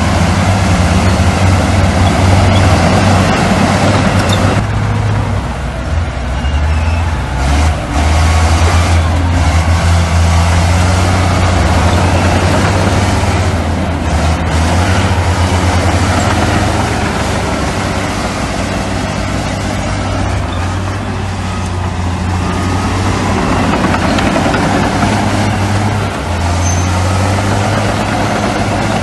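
Heavy diesel engines of earthmoving machinery running loudly and steadily, the engine note shifting a few times as they work.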